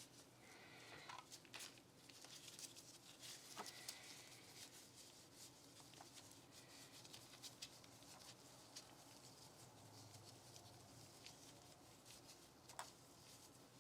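Faint small clicks and light scratchy rubbing from pistol parts being handled, with one sharper click near the end.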